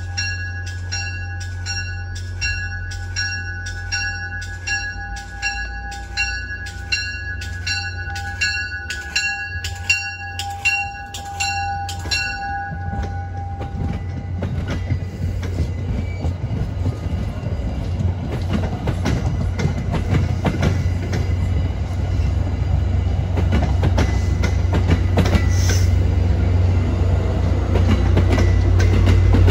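A bell rings steadily about twice a second while an MBTA commuter train approaches. It fades out after about twelve seconds, and the train's cab car and passenger coaches then pass close by, with wheel and rail noise building louder toward the end.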